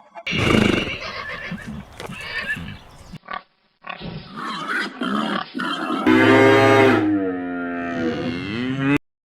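Farm animal calls: a run of rough, noisy calls, then a loud, long pitched call about six seconds in that falls in pitch near its end and cuts off sharply.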